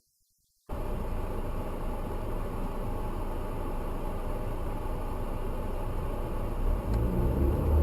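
Steady engine and road noise of a moving car, cutting in abruptly just under a second in and growing louder near the end.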